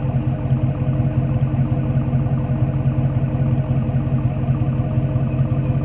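Ford F-150 pickup's exhaust, fitted with an aftermarket Black Widow single muffler, idling steadily with a deep, even pulsing note.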